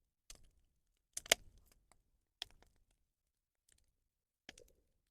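A bonfire of burning rubbish crackling: a handful of sharp, scattered pops and clicks at uneven intervals, the loudest about a second in.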